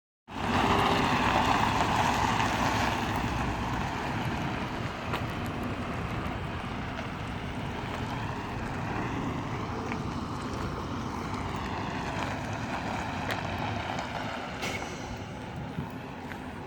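A semi truck's engine running with a steady rumble, mixed with wind noise, slightly louder for the first few seconds.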